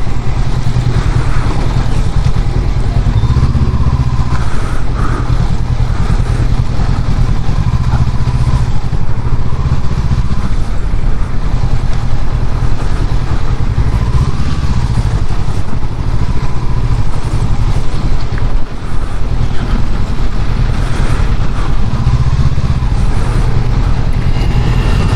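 Honda CB500X's parallel-twin engine running at low speed with a steady low rumble, the bike held in stalled traffic.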